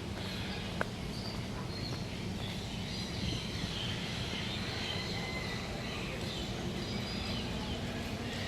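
Many birds chirping over a steady low background rumble, with a single sharp click about a second in.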